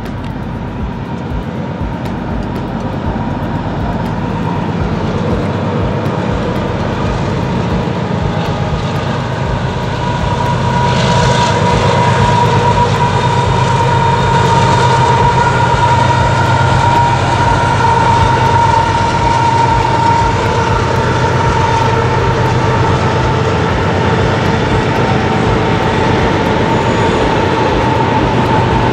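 CPKC intermodal freight train with diesel locomotives passing, getting louder over the first ten seconds and then holding steady. About ten seconds in, a steady high whine joins the engine sound.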